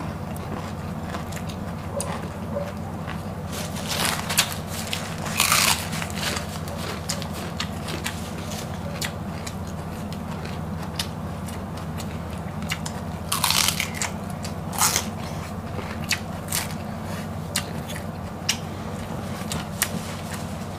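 Crisp crunching and chewing of raw cabbage leaves, close to the microphone: a run of small crackles with a few louder bites scattered through. A steady low hum runs underneath.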